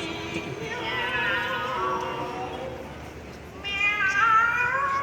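Classical singers imitating cats, singing drawn-out 'miau' phrases that slide and waver in pitch. The phrase fades about three seconds in, and a louder, upward-sliding meow starts near the fourth second.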